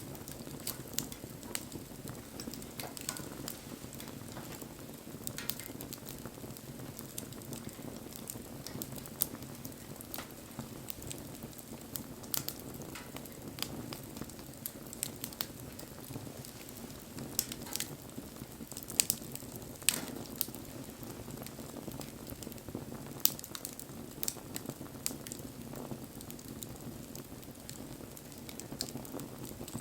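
Wood bonfire burning: a steady low rush of flame with frequent sharp crackles and pops, a few louder snaps among them.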